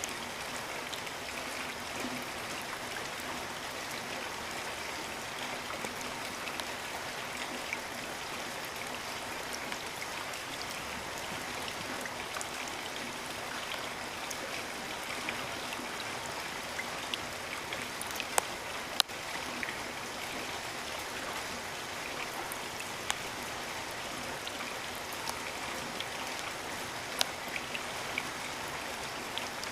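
Steady rain falling as an even hiss, with scattered sharp drop strikes close by. A few louder ones come about two-thirds of the way through and again near the end.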